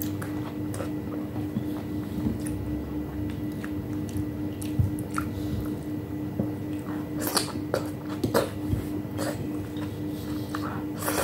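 Close-miked chewing and wet mouth sounds of a person eating soft boiled food, with scattered short smacks and clicks. A steady low hum runs underneath.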